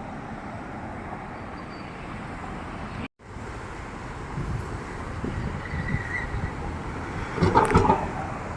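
Street traffic noise from passing cars, steady, with a brief dropout about three seconds in and a louder short burst near the end.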